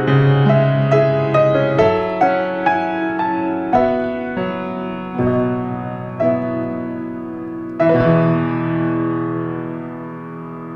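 Solo piano playing slowly, single notes and chords struck one after another and left to decay, then a final chord about eight seconds in that rings and fades away.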